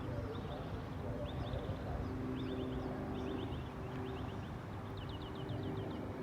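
Small birds chirping in short runs of quick falling notes that come faster and closer together toward the end, over a faint steady low hum.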